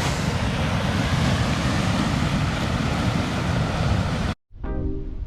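Wind buffeting the microphone over the steady wash of ocean surf, cutting off suddenly about four seconds in; background music starts right after.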